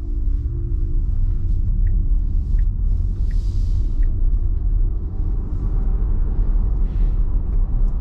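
Steady low road and tyre rumble inside an electric car's cabin while driving on a highway. There is no engine note. Four faint short high beeps come in the first half.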